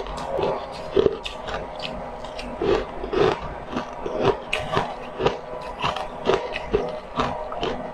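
Close-up eating: crisp crunches and chewing as frozen pink discs are bitten and chewed, a few sharp crunches each second.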